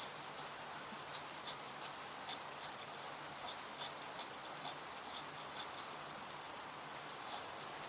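Faint footsteps crunching at a walking pace, about two soft steps a second.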